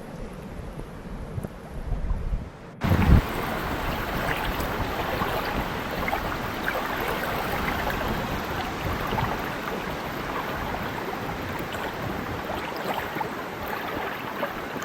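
Wind and lapping water on a loch shore, with wind buffeting the microphone. Quieter at first, then after a sudden change a few seconds in it becomes a louder steady rush of wind and water.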